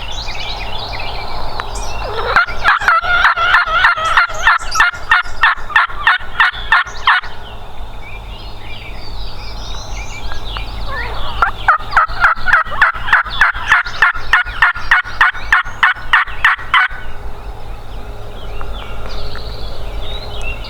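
Wild turkey yelping in two long runs of quick, evenly spaced notes, about five a second, each run lasting about five seconds. Faint songbird chirps can be heard between the runs.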